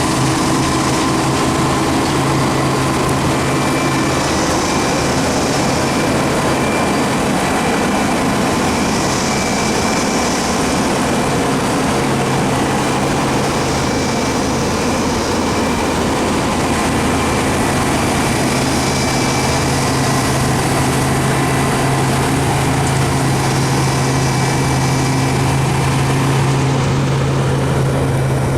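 Heavy harvest machinery running steadily under load: a constant low engine drone with a dense mechanical rush, and a high hiss that swells every four to five seconds.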